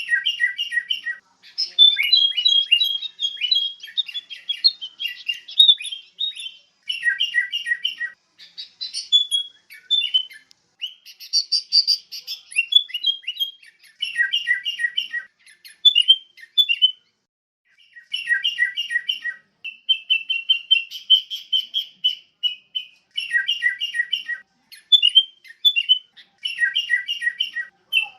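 Sooty-headed bulbul (kutilang) song: repeated phrases of quick, bright chirping notes, in bouts of one to two seconds with short pauses between them.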